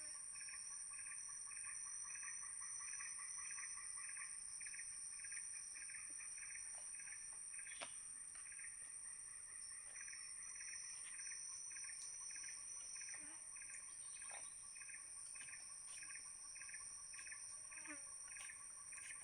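Forest insects: two steady high-pitched drones, with a regular pulsing chirp about twice a second beneath them.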